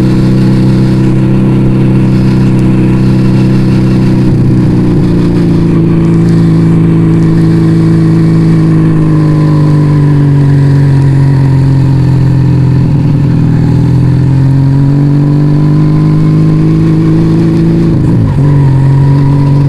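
Yamaha Vega ZR motorcycle engine through an aftermarket Arrow exhaust, running at a steady speed under way; the pitch sags a little and comes back about halfway through, then drops briefly near the end before picking up again.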